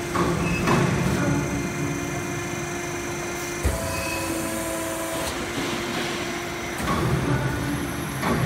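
Sheet-metal duct production line machinery running, a steady machine hum with held tones that change pitch, one sharp knock about four seconds in and louder bouts of working noise near the start and near the end.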